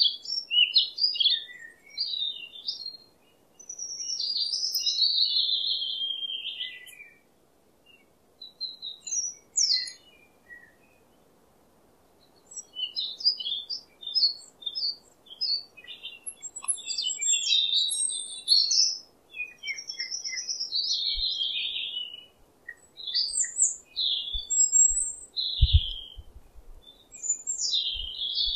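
Small songbirds chirping and calling in quick, varied high phrases and trills, with short pauses between bouts.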